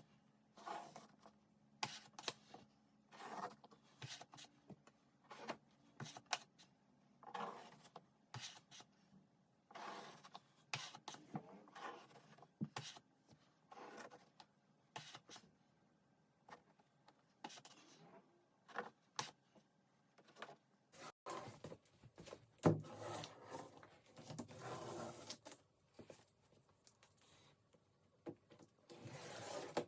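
A plaster knife scraping and spreading plaster across a canvas: a series of short scrapes and taps, denser near the end.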